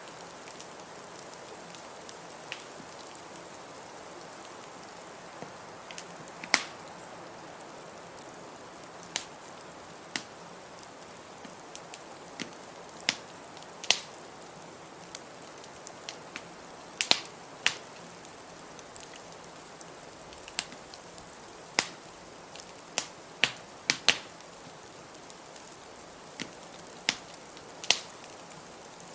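Wood fire crackling, with sharp pops at irregular moments over a steady hiss of noise.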